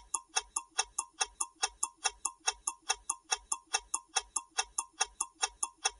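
Clock-ticking sound effect of a quiz countdown timer: sharp, even ticks at about four to five a second.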